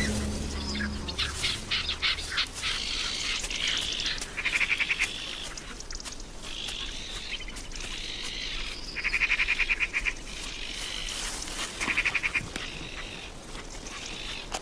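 Birds calling in natural surroundings: three short bursts of rapid chattering calls, about four to five seconds apart, among scattered clicks and softer calls.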